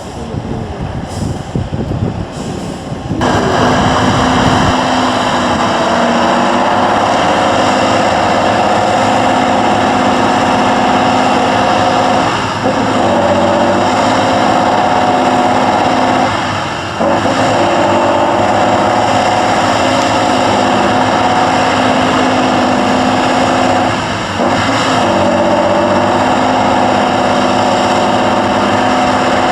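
Tatra 813 8x8 truck's air-cooled V12 diesel running hard at steady high revs, starting about three seconds in. The revs dip briefly three times and come back each time.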